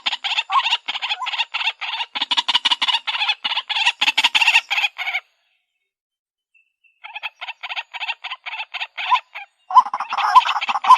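White-breasted waterhen calls: a rapid chorus of harsh, repeated croaking notes, a recorded lure-call mix. It cuts to complete silence about five seconds in for nearly two seconds, then starts again and grows louder near the end.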